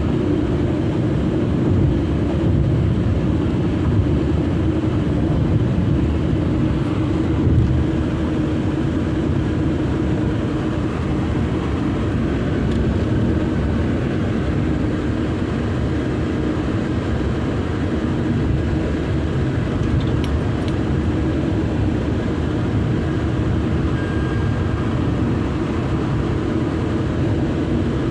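A car driving at a steady pace: continuous engine and road noise with an even hum and no changes.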